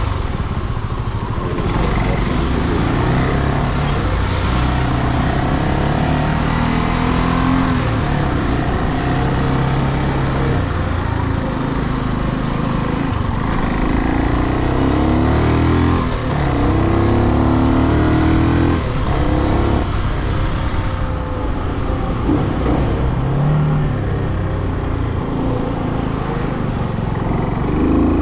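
Brixton Cromwell 250's air-cooled single-cylinder engine running on the move, its revs rising and dropping again and again through the gears, with wind rush over the bike.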